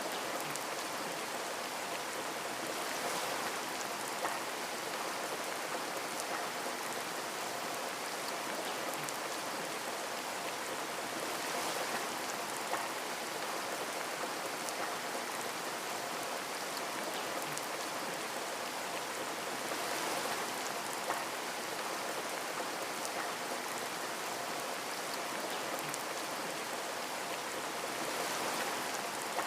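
Steady rain falling on a window pane, an even hiss with a few louder single drop hits.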